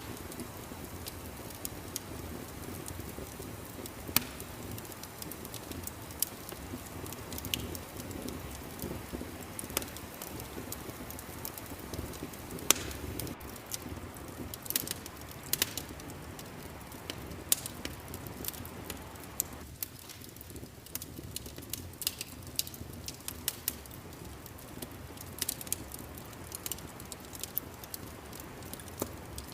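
Wood fire crackling in a fireplace: a steady low rumble of burning with irregular sharp pops and snaps, a few of them louder than the rest.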